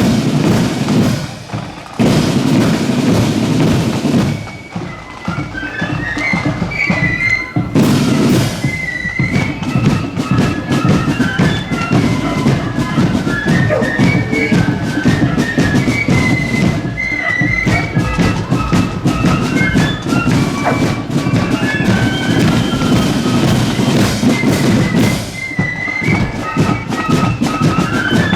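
Marching flute band playing a tune with side and bass drums. Drums alone open, and the flutes' melody joins about five seconds in.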